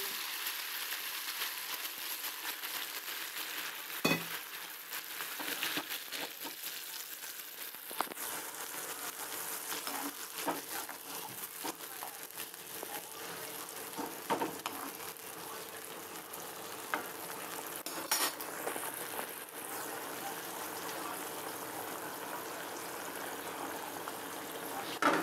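Potatoes and spice paste sizzling in hot oil in a kadai as water is poured in, then the gravy keeps sizzling and bubbling steadily. A few sharp knocks of a utensil against the pan stand out, one about four seconds in.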